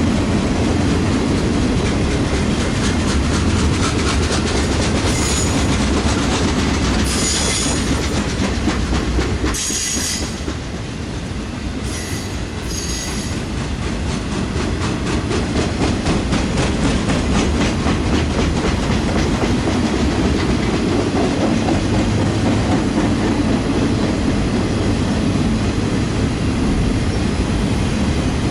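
Freight train cars rolling past with a steady rumble and rapid clickety-clack of wheels over rail joints. Several brief high-pitched wheel squeals come in the first half.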